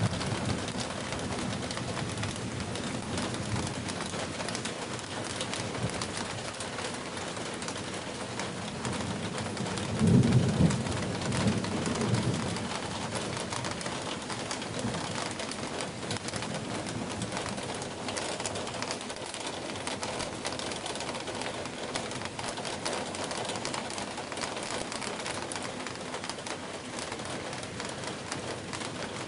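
Heavy rain falling steadily, the first heavy downpour in two months. A pigeon coos low over it, loudest about ten seconds in.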